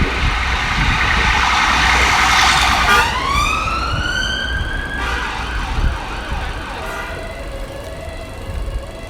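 A loud rushing noise swells over the first few seconds, then a wailing tone rises steeply in pitch about three seconds in and levels off, fading slowly toward the end.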